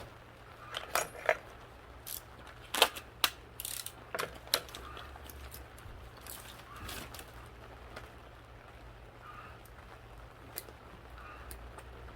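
Metal tools and parts clinking and clicking while a forklift engine is being reassembled: a quick run of sharp clinks in the first few seconds, then only an occasional tap, over a steady low hum.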